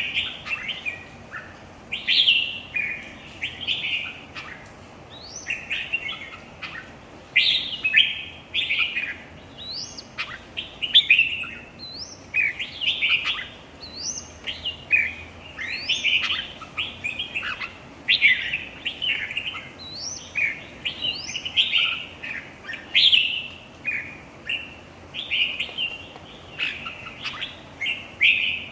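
Red-whiskered bulbuls singing in a contest: short, loud, warbling phrases repeated every second or two, often overlapping.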